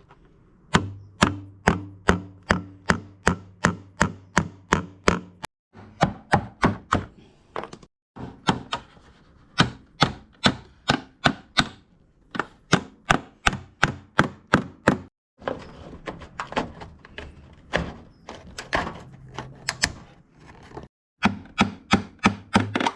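Hammer driving nails in a steady run of blows, about three a second, fastening the metal sheeting of a beehive roof, over a low steady hum. The run breaks off abruptly several times.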